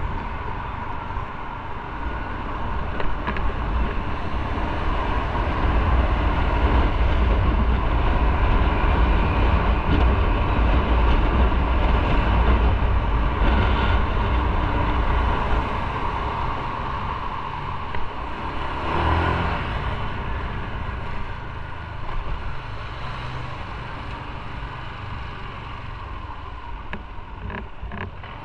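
Motorcycle running at road speed while riding, its engine rumble mixed with wind and road noise; it grows louder a few seconds in and eases off over the second half.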